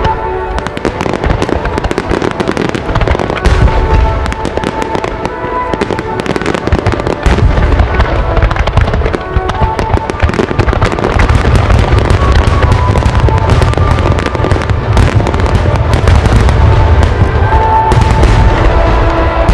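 A continuous barrage of fireworks shells bursting, dense crackling with deep booms that grow heavier about seven seconds in, over music from the show's theme song.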